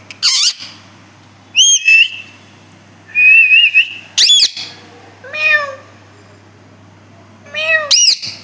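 Pet parrot calling: a string of about six loud whistles and squawks with gaps between them, most arching up and down in pitch, one a wavering whistle about three seconds in.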